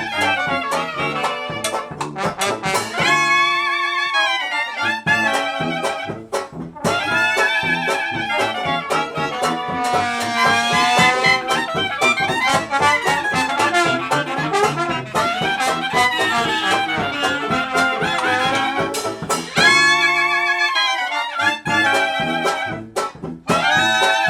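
Live swing jazz band playing an instrumental passage, horns carrying wavering sustained melody lines over the rhythm section, with short loud full-band hits twice.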